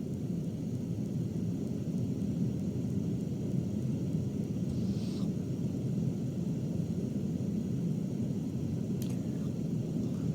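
Brown noise from an Amazon Echo smart speaker: a steady, deep hiss with most of its weight in the low end.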